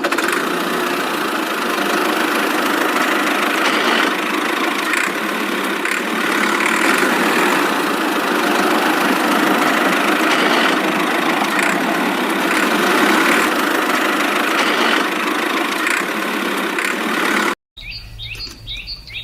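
A small motor running steadily at a constant pitch, the drive of a DIY mini toy tractor. It cuts off suddenly near the end, and a few short bird chirps follow.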